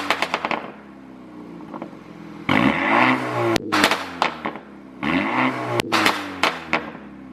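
BMW 428i's turbocharged 2.0-litre four-cylinder blipped twice from idle, each rev falling away into a string of sharp pops and crackles from the exhaust on the overrun, the tuned 'pop' sound. A first burst of crackles trails off at the very start.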